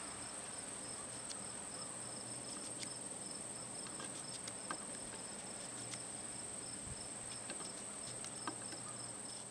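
Insects chirping steadily: a continuous high-pitched drone with a faster, pulsing chirp beneath it. A few faint light clicks are scattered through.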